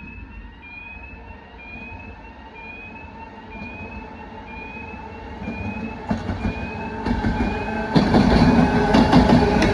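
A train hauled by a BKG2 electric locomotive approaching and growing louder, with wheel clatter over the rails near the end. Over it, an electronic warning signal gives a short rising chirp about once a second, fading out after several seconds.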